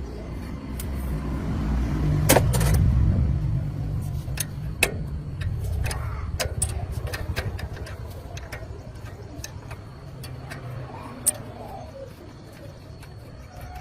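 An engine running with a low rumble that swells about two seconds in and then fades, and a few sharp metallic knocks and clicks over it.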